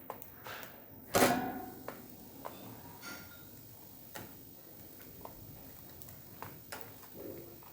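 Budgerigars: scattered light clicks and taps, with one short, loud chirp about a second in.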